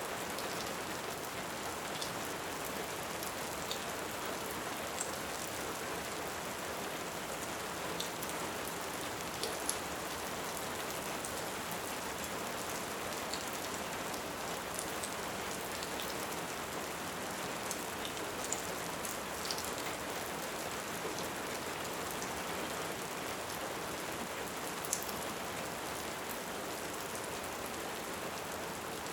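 Steady, even rain hiss with a few scattered sharp ticks on top.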